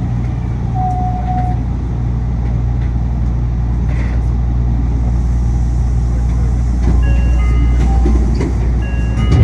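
Yui Rail monorail train running, heard from inside the cabin: a loud, steady low rumble and hum mixed with air-conditioning noise. Near the end a few faint steady tones come in at different pitches.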